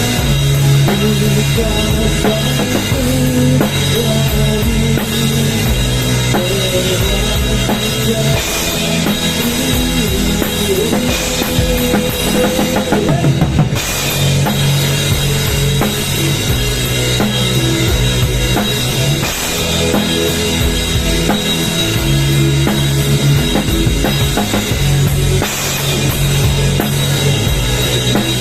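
Loud rock-style music with a drum kit and a heavy bass line, played through a large PA sound system being sound-checked.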